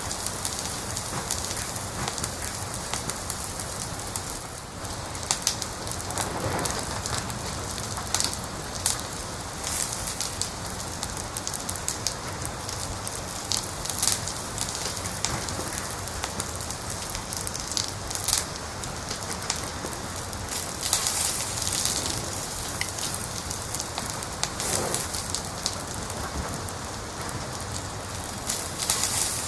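Fire crackling: a steady hiss with frequent sharp pops and snaps, a few of them louder.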